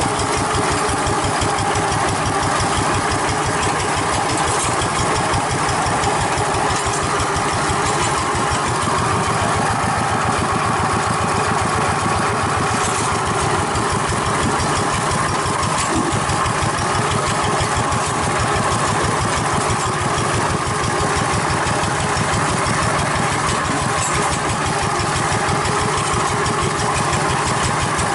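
Diesel engine of a rice-field hand tractor running steadily, with a rapid, even chugging throughout.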